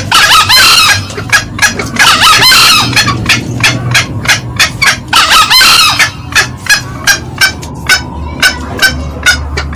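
Green junglefowl calling, a loud lure recording of male and female. A quick, steady run of sharp cackling notes, about three a second, is broken three times by a longer, harsh crow.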